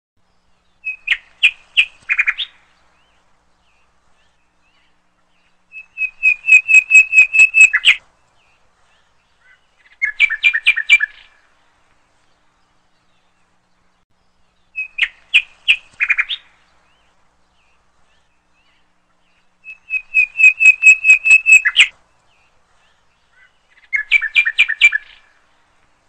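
A bird calling in short bursts of rapid repeated notes, six bursts separated by pauses of a few seconds. The same three-burst sequence is heard twice, as if looped.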